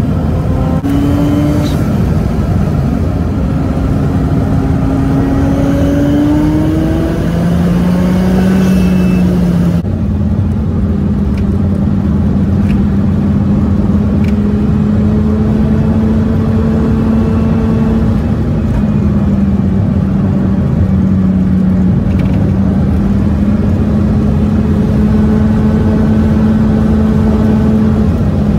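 Mazda RX-7 FD's twin-turbo rotary engine heard from inside the cabin, sped up to 1.5 times normal speed. Its note climbs and drops back through several gear changes over the first ten seconds, then holds a steady pitch while cruising.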